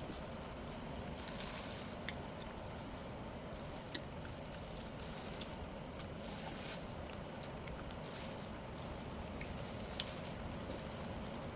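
Wet eating sounds: a person chewing, with a few sharp clicks, the loudest about four seconds in and another near the end.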